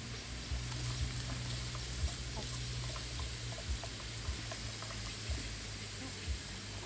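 Steady hiss of rain and a flowing river, with scattered light ticks.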